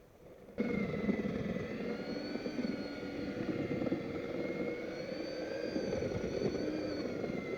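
An electric power tool's motor switched on, running steadily with a slightly wavering whine for about seven seconds, then cut off suddenly.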